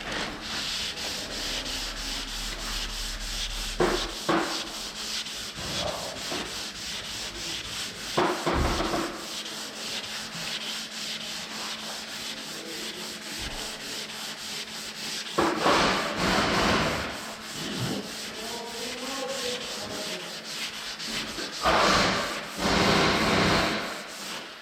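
Body filler on a minibus panel being sanded with 180-grit abrasive: a continuous rapid rubbing made of many quick, even strokes, with louder, harsher stretches about eight seconds in, around sixteen seconds and near the end.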